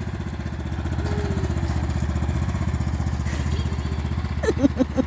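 Tractor engine running steadily, a low note with a fast, even throb.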